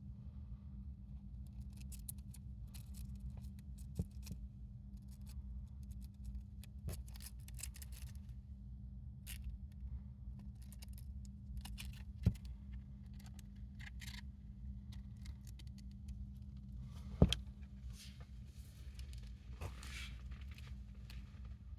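A hamster rustling and crunching at a cabbage leaf: faint, scattered crisp clicks and crackles over a steady low hum, with two sharper clicks, about halfway through and about two-thirds of the way through.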